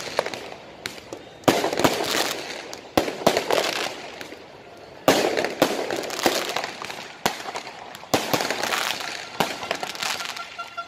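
Aerial fireworks bursting overhead: about half a dozen sharp bangs, one every second or two, each trailing off into crackling.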